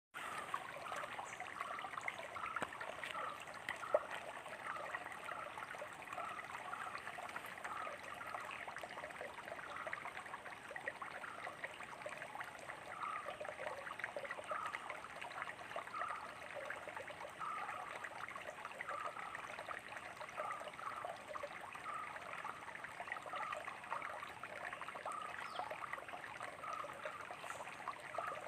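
A small stream trickling and gurgling steadily, with a light bubbling pattern about twice a second. Now and then there are a few faint, high bird chirps.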